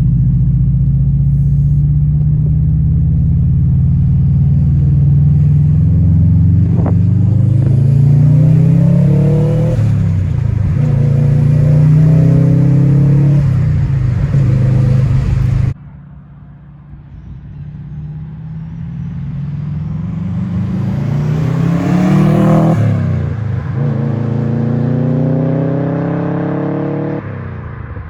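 2002 Subaru WRX's turbocharged flat-four running through an Invidia N1 race exhaust, rumbling at idle and revved up and back down several times. After a sudden cut about halfway through, the engine climbs in a long rev, drops, and rises again.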